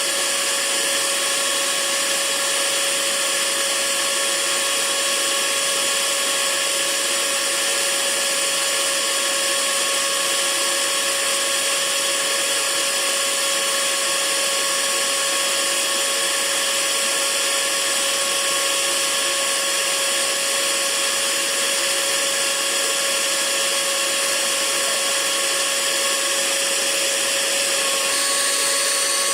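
Hair dryer running steadily: a constant airy hiss with a steady motor hum over it, its tone shifting slightly near the end.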